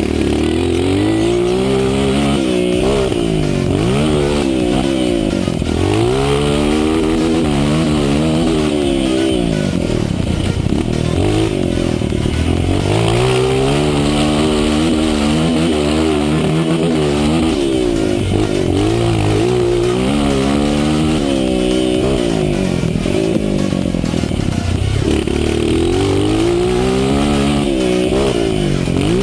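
Honda CRF230 single-cylinder four-stroke dirt bike engine being ridden hard, revving up and backing off over and over, its pitch climbing and then dropping every two to four seconds.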